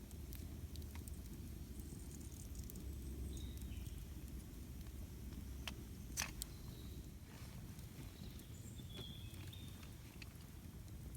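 Campfire burning with a steady low rumble and sparse crackles and pops, the sharpest a double pop about six seconds in.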